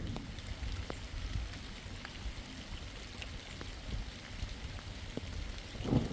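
Rain falling, with scattered single drops striking a surface over a steady low rush, and a louder low burst near the end.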